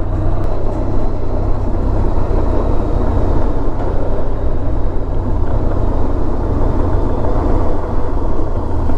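Honda VFR1200X Crosstourer motorcycle's V4 engine running at a steady pace under way, with a steady rumble and rushing wind noise.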